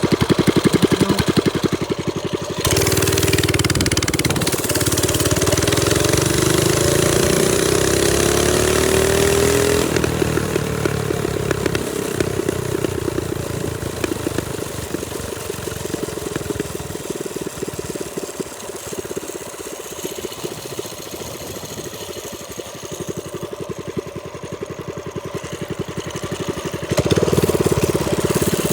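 Trailmaster Storm 200 minibike's single-cylinder four-stroke engine running under way. It speeds up and rises in pitch over several seconds, then eases off to a lower, quieter run and picks up again near the end. Wind hisses over the microphone.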